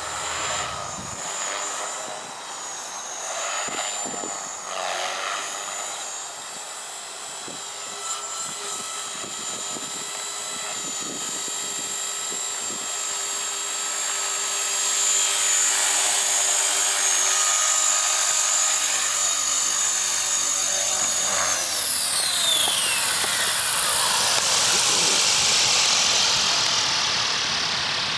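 Electric Oxy3 RC helicopter's brushless motor and rotors whining at a steady high pitch in flight, growing louder about halfway through. Near the end the whine falls steadily in pitch as the rotors spool down.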